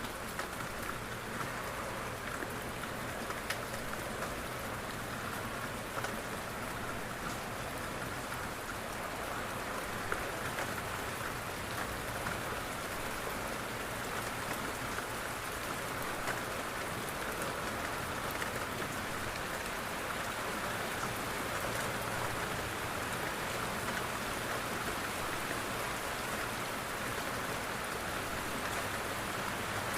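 Steady rain falling on a window, an even hiss with scattered sharp ticks of single drops striking.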